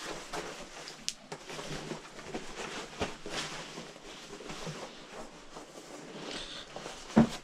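Clothes rustling and being handled as someone gets dressed, with scattered small clicks and a sharp knock near the end.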